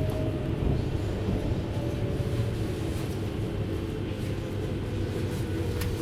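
JR Hokkaido 733-series electric train heard from inside a passenger car: a steady rumble of wheels on rail with a few faint clicks. The motor whine sinks slowly in pitch, a sign that the train is slowing.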